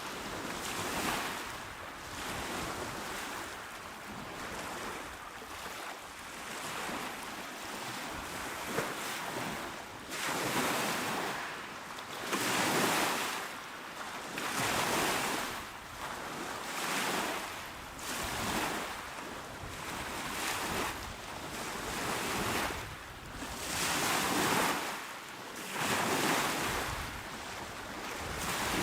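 Small ocean waves washing onto a shore, a hissing rush that swells and fades every two seconds or so, with a steady wash of surf between.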